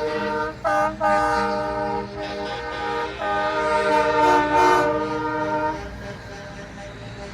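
Parade trucks' chord air horns blowing a series of blasts, a short toot among longer ones and one held for a couple of seconds, fading near the end.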